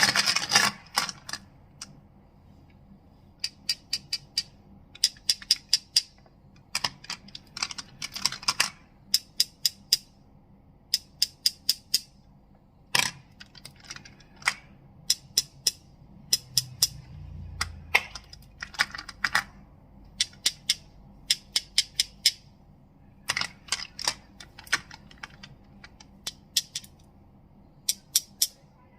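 Crystals clicking and clacking sharply, in quick runs of several clicks with short pauses between, and a brief soft low rumble of handling partway through.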